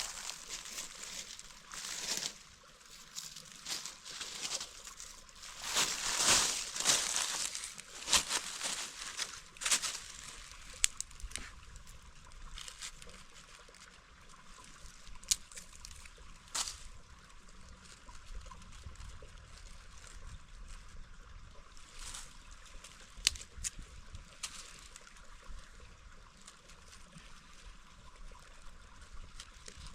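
Mountain stream trickling and gurgling. In the first ten seconds there is an irregular run of louder crunching steps on the riverbed, then only the water with scattered sharp clicks.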